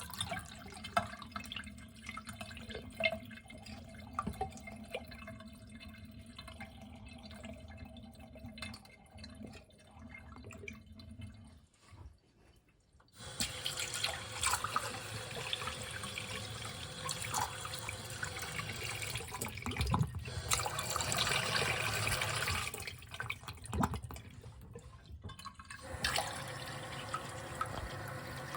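Water trickling and dripping in a miniature toilet and its tank. After a short silence about twelve seconds in, the water runs louder and steadily, with a brief dip near the end.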